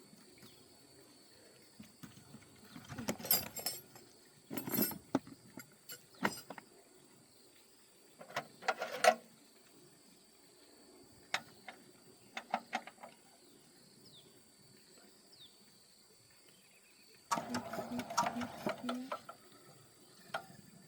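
Irregular knocks and clatter in several short bursts, typical of tools and metal parts being handled during hands-on work on the engine, over a faint steady high-pitched whine.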